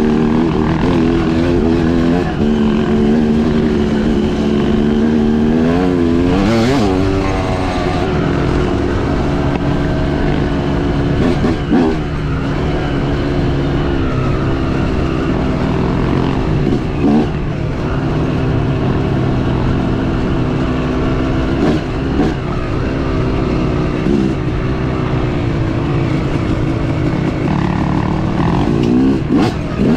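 Dirt bike engine running hard on the trail, its pitch climbing and dropping as the throttle opens and closes, with several quick revs.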